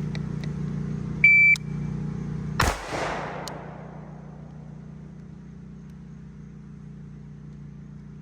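Shot timer start beep, then about a second later a single gunshot with a sharp crack that echoes away. A steady low hum runs under the beep and drops away at the shot.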